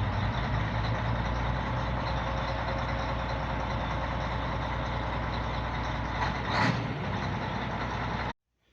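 Scania 113 truck's diesel engine running steadily, with a steady whine over the engine note. A brief louder knock comes about six and a half seconds in, and the sound cuts off abruptly just before the end.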